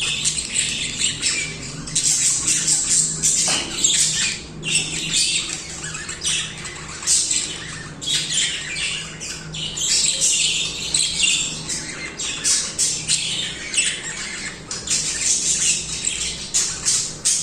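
Several budgerigars warbling and chattering continuously, a dense stream of short high chirps, trills and harsh calls overlapping without a pause.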